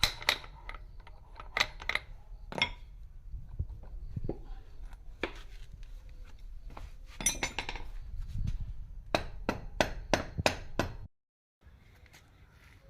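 Hammer blows and metallic clinks on parts during a centrifugal pump repair. The strikes come at irregular intervals, with a quick run of about six strikes near the end. The sound cuts off abruptly, then only quiet background remains.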